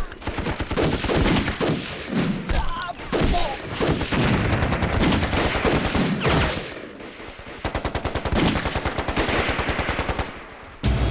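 Sustained rapid gunfire from many guns at once, the shots overlapping in fast volleys, with short lulls about seven and ten seconds in.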